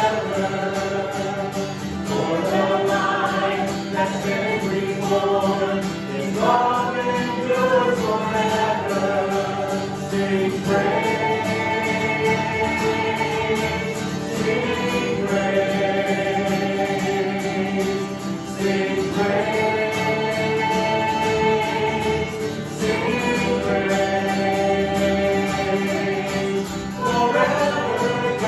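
Worship song sung by a group of voices over instrumental accompaniment, with long held notes.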